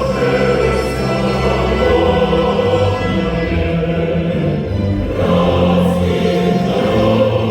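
Anthem sung by a choir over musical accompaniment, moving in slow, long-held chords.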